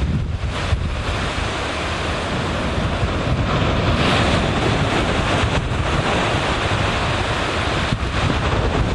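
Surf washing on a beach, a steady rush of waves with wind buffeting the microphone as a low rumble; the wash swells a little about four seconds in.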